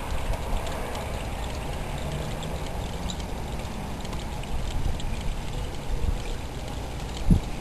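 Rainwater pouring and splashing down a rain chain in a steady stream, with a single low thump near the end.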